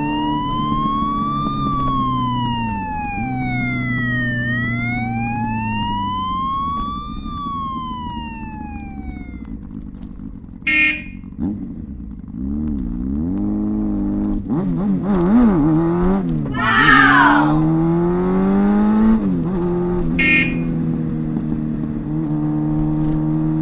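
Police siren sound effect wailing slowly up and down over a steady low motor hum, stopping about nine seconds in. A couple of sharp clicks follow, then a motorcycle engine sound effect revving up and down.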